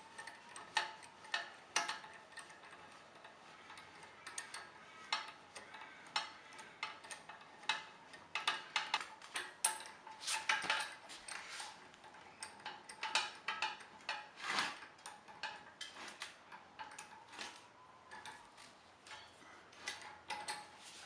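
Irregular metallic clicks and clinks from a hand-wound scissor-type motorcycle lift stand being worked.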